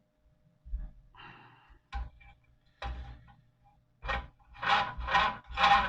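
Handling noises from an old Mamod toy steam engine being picked over: a low thump, a brief scrape, a couple of sharp clicks, then a quick series of about five short noisy knocks near the end.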